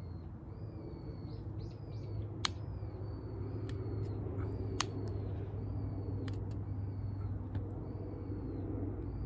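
A bird calling over and over with short, high, arched notes, while a wood campfire gives a few sharp crackling pops against a steady low background rumble.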